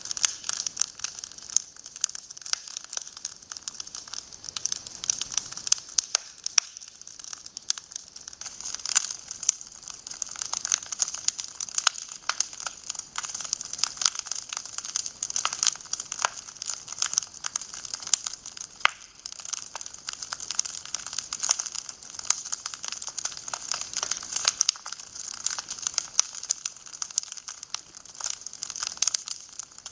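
Wood fire burning in a fireplace, crackling: a constant run of irregular sharp pops and snaps over a steady hiss.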